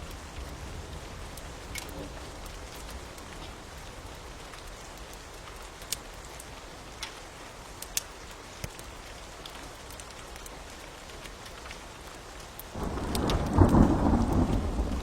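Steady rain with scattered sharp crackling pops from a fire. Near the end, a loud low roll of thunder breaks in and is the loudest sound.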